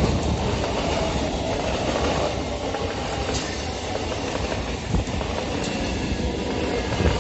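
EMU local train running past: a steady rumble of the coaches with the clickety-clack of wheels over rail joints, and a couple of sharper knocks about five seconds in and near the end.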